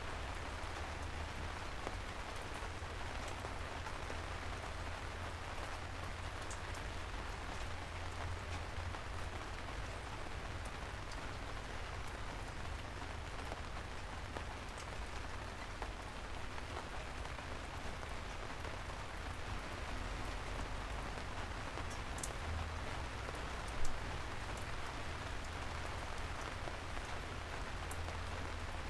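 Steady rain falling on a surface, with scattered single drops ticking over a low rumble. One louder tap comes near the end.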